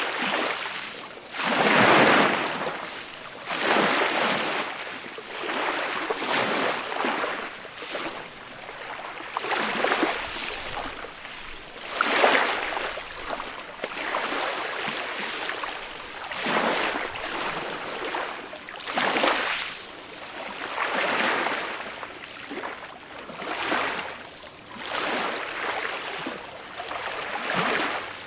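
Small, gentle waves breaking and washing up the beach, a hiss of surf that swells and fades every second or two.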